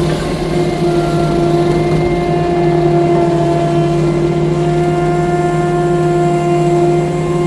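Compact track loader's diesel engine running steadily with a constant pitch.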